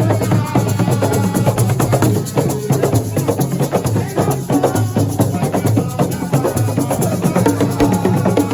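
Live assiko music: a fast, busy percussion pattern of rattles and sharp wood-block-like clicks over a moving low pitched line.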